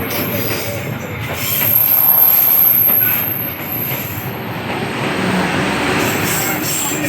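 Train rolling past close by, its wheels squealing on the rails with a high-pitched whine over the rumble. The noise swells to its loudest about two seconds in, then eases to a steady run.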